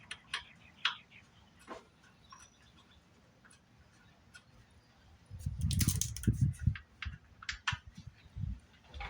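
Hand work: scattered clicks and taps, with a cluster of knocks and rustling about six seconds in.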